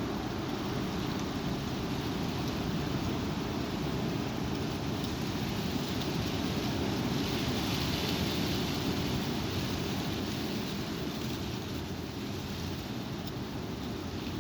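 Strong wind blowing and rumbling on the microphone, a steady low noise that swells a little about halfway through.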